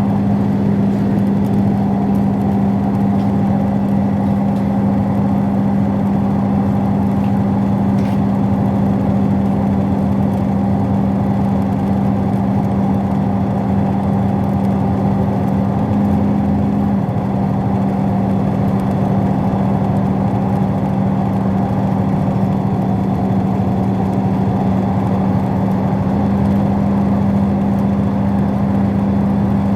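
Diesel train running steadily, heard from inside a passenger carriage: a constant engine drone and hum with running noise, the drone's pitch shifting slightly partway through and settling back near the end.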